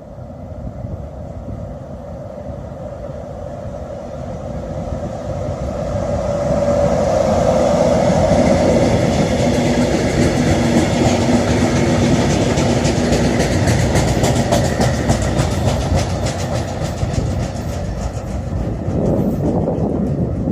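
A train running on the rails, growing louder over the first several seconds and then staying loud, with rapid clicking from the wheels in the second half.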